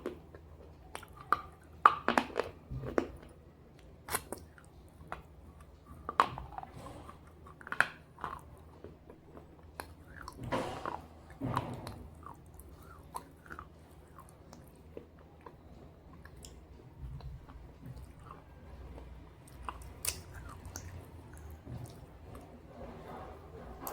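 Pieces of slate coated in red gravy being bitten and chewed close to the microphone. Sharp crunches through the first half give way to softer chewing.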